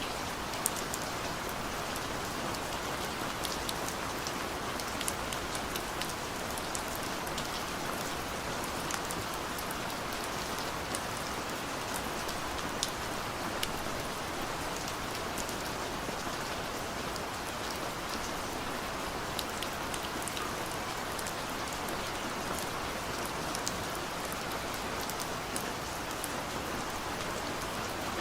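Heavy rain pouring down steadily, a dense even hiss with frequent sharp taps of drops striking a surface.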